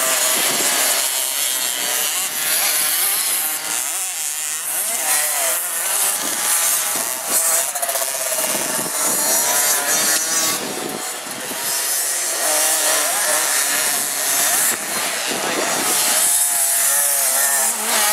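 Small 50 cc two-stroke motocross bike engines buzzing, their pitch rising and falling as the riders rev through the throttle.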